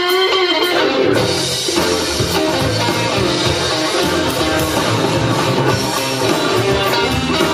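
Live blues band playing an instrumental passage: electric guitar over bass and drum kit, with bending guitar notes near the start.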